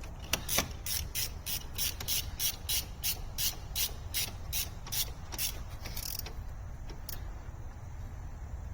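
Ratchet wrench clicking in a steady rhythm, about four clicks a second, as a nut is run down and tightened on the transmission's shifter shaft; the clicking stops about five and a half seconds in, followed by a couple of single clicks.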